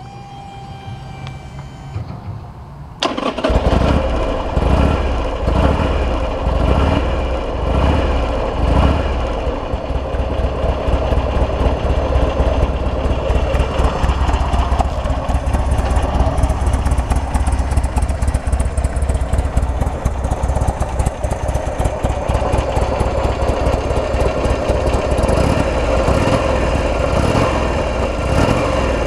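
Buell XB9S motorcycle's air-cooled V-twin engine starting about three seconds in, catching at once and settling into a loud idle with an uneven, pulsing beat.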